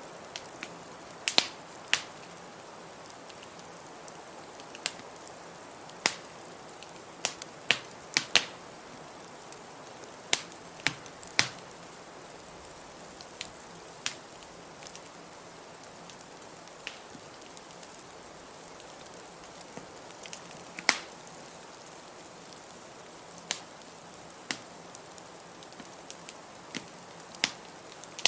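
Wood fire crackling in a fireplace: irregular sharp pops and snaps, about one a second and unevenly spaced, over a steady hiss of storm wind.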